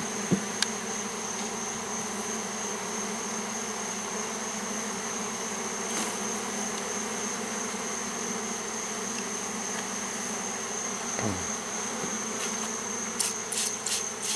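Honeybees from a disturbed swarm buzzing steadily around an opened hive box, a continuous low hum, with a single bee buzzing close past about eleven seconds in, its pitch dropping. A steady high-pitched insect trill runs underneath, and a quick run of sharp clicks comes near the end.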